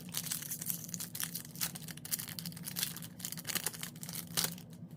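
Foil trading-card pack being torn open and its wrapper crinkled, a run of irregular crackles and rustles.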